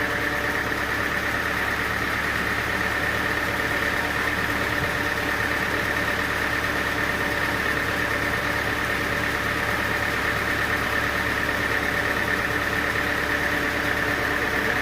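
Sawmill machinery running steadily: an even engine-like drone with a steady high whine, unchanging throughout.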